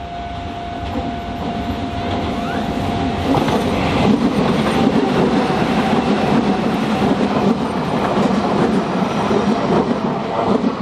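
Semboku Rapid Railway electric commuter train approaching and passing close by. The wheel-on-rail noise builds and turns loud from about four seconds in as the cars go past.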